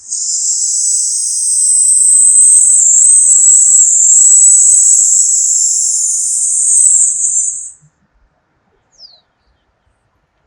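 A long, steady hissing 'sss' breathed out through the teeth, the Taoist healing sound for the lungs, held for about eight seconds and then stopped.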